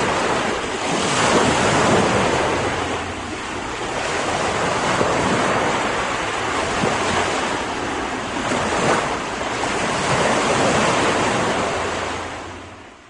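Ocean surf: waves breaking and washing up a sandy beach in repeated swells, fading out near the end.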